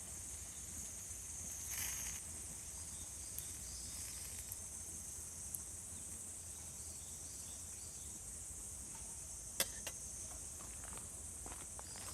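Steady high-pitched chorus of insects, with a few faint scattered clicks.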